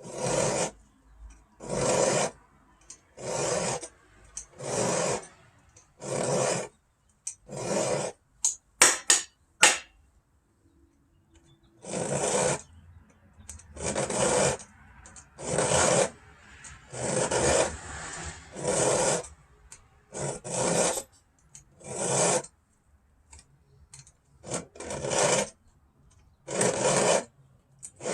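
Chainsaw chain being sharpened with a hand file, in steady rasping strokes about every second or so. About a third of the way in there is a short break with a few sharp clicks, then the filing strokes resume.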